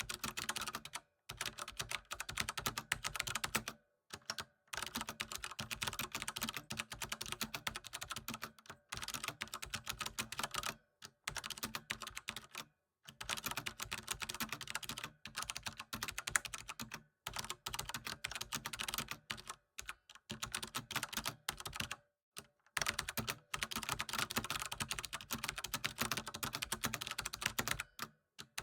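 Typing on a computer keyboard: fast, continuous runs of key clicks, broken every few seconds by short pauses.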